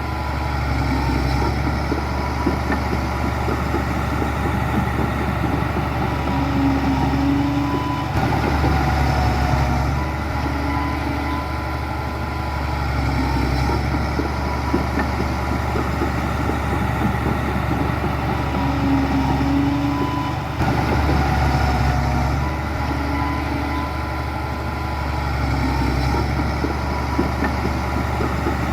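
Diesel engine of heavy earthmoving machinery running continuously, the load swelling and easing in a cycle that repeats about every twelve seconds.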